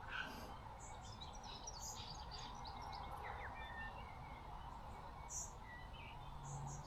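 Wild birds chirping and calling faintly, short scattered chirps of several kinds, over a steady faint background hiss.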